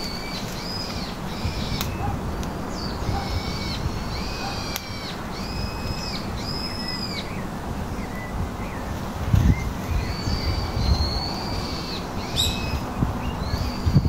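Birds calling: a series of short, high, arched notes repeated every half second to a second, over a steady background noise, with a few low bumps in the second half.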